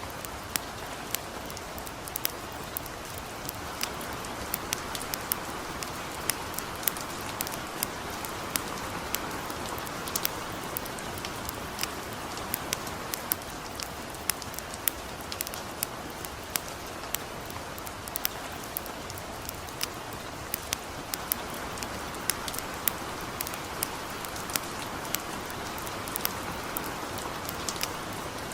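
Light rain falling with a steady, even hiss, mixed with a wood campfire crackling: frequent sharp, irregular pops and clicks, several a second.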